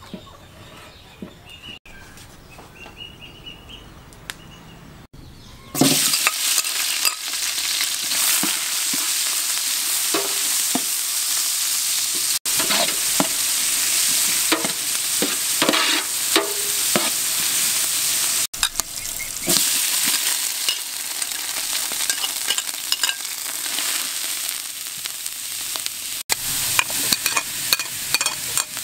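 Sliced shallots frying in a metal pot: a loud sizzle starts suddenly about six seconds in and runs on, with the scrape and knock of a spatula stirring against the pot.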